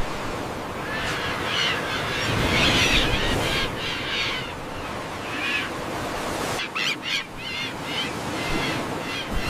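Birds calling in a series of short, harsh notes over a steady hiss of forest ambience. The background drops out briefly twice about two-thirds of the way through.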